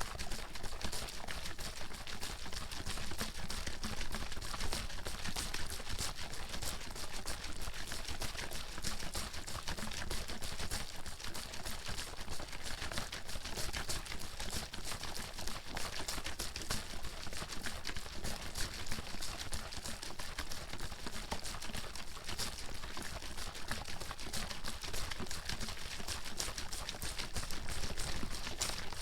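Plastic water bottle being shaken continuously, the water sloshing and slapping inside in a rapid, steady stream of splashes and rattles; the bottle holds pre-workout powder being mixed in.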